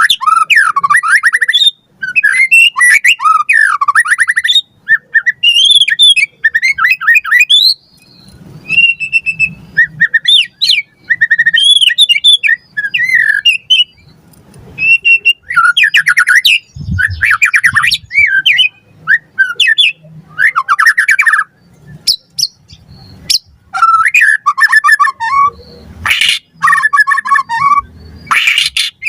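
White-rumped shama (murai batu) singing loudly and without let-up: quick, varied phrases of rising and falling whistles, trills and sharp notes, separated by short pauses.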